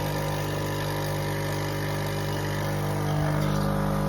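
Espresso machine's pump humming steadily as it runs, squirting hot water through instead of brewing coffee.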